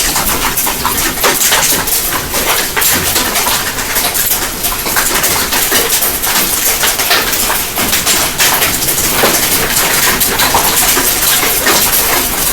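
Hail pelting a car's windshield and body: a loud, dense, steady rattle of countless small hits.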